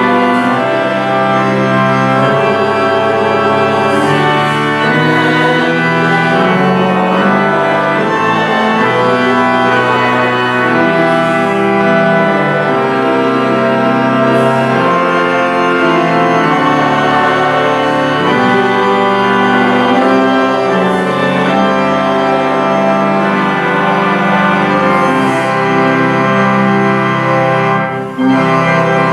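Church organ playing full, sustained chords, with a brief break just before the end.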